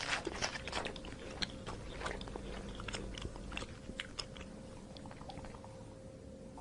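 An animal chewing and crunching food close to the microphone, in irregular crunches that are thickest in the first second or two.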